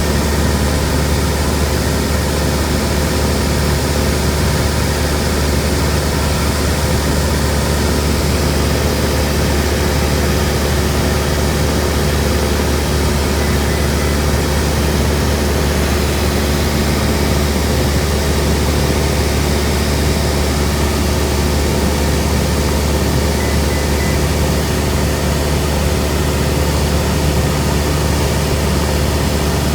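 Cessna 172M's four-cylinder Lycoming engine and propeller running steadily in flight: a loud, even drone with a strong low hum.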